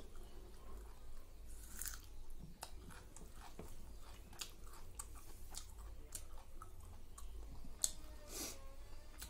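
A person chewing a mouthful of rice and chicken curry close to the microphone, with many small wet mouth clicks throughout and one sharper click near the end.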